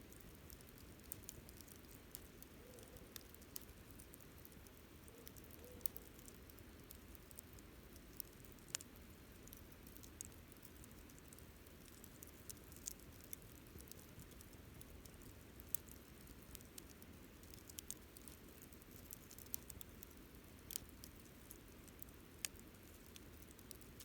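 Wood campfire crackling: faint, irregular sharp pops and snaps over a low steady rumble.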